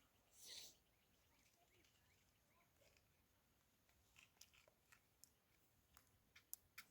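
Near silence, broken by a brief faint rustle about half a second in and a scatter of faint sharp clicks in the second half.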